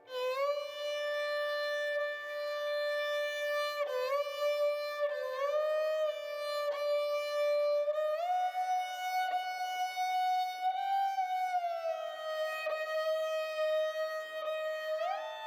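Background music: a slow solo melody on a violin-like bowed string instrument, long held notes that slide smoothly from one pitch to the next.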